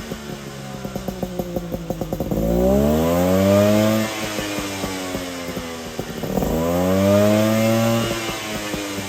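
Suzuki Jimny SJ30's three-cylinder two-stroke engine running through an Apio Matsumoto-type expansion chamber and muffler: an uneven, popping idle, then two throttle blips about four seconds apart, the pitch rising and falling back each time.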